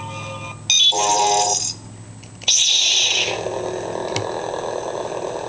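Custom lightsaber's sound board playing its Episode 3 OBN sound font: a steady electronic hum with sudden loud bursts about a second in and again about two and a half seconds in, like ignition or swing effects, the hum carrying on between them.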